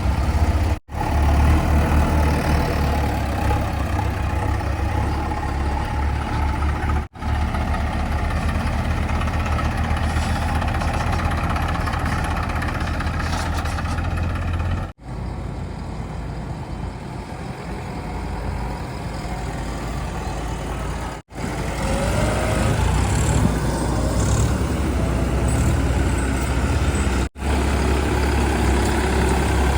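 Heavy diesel engines of earthmoving machinery and trucks running with a deep, steady rumble. The sound comes in several clips about six seconds long, joined by abrupt cuts.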